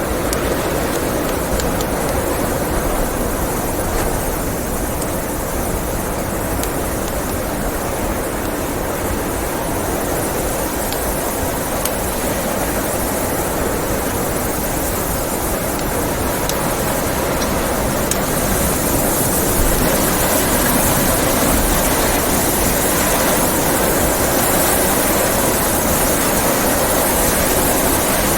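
Blizzard wind blowing steadily, with a wood fire crackling in a fireplace. The wind's hiss grows louder about two-thirds of the way through.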